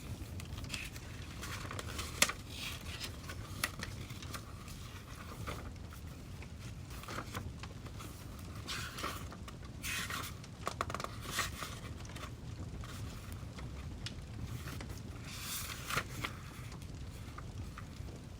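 Wood fire crackling, with irregular sharp pops over a low steady rumble, the loudest pop about two seconds in. A few short scraping, rustling noises come and go, around ten and sixteen seconds in.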